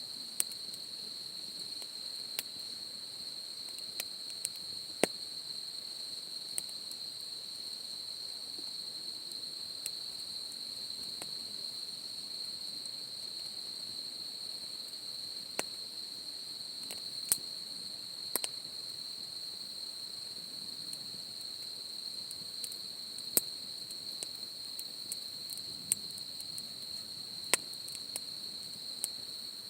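A steady, high-pitched insect chorus, with irregular sharp pops and crackles from a wood campfire.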